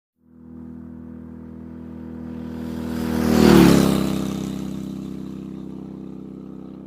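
A motorcycle passes by. Its engine grows louder, peaks with a rush of noise about three and a half seconds in, then drops in pitch and fades away.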